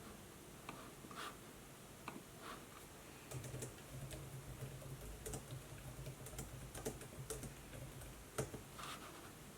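Typing on a laptop keyboard: soft, irregular key clicks, sparse at first and coming thicker from about three seconds in.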